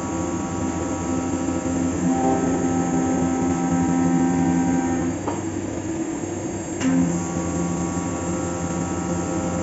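Five-axis CNC milling machine cutting metal: a steady machining hum with several held tones that shift in pitch twice as the cut changes, with a sharp click about five seconds in and another about seven seconds in.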